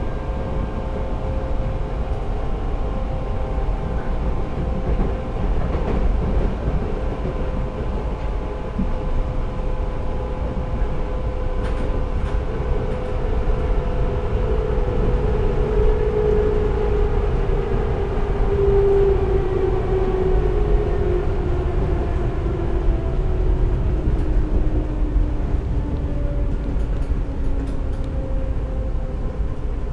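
Budapest M2 metro train running through the tunnel: a steady rumble with a motor whine whose pitch falls over the second half, as if the train is slowing.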